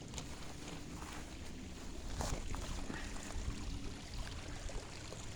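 Small moorland stream running steadily, with a few scattered clicks and knocks over it, the sharpest about two seconds in.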